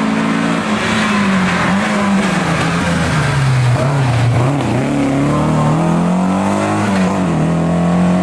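Historic rally car engine driven hard at high revs, its pitch dropping and climbing again several times as the driver lifts, brakes and accelerates.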